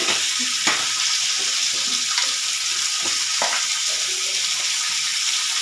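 Cut green beans frying in oil in a kadai, a steady sizzle with a few faint ticks and pops.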